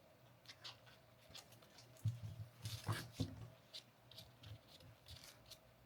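Faint, scattered light clicks and taps of small plastic fan parts being handled and fitted together as a mini fan is reassembled, busiest around two to three seconds in.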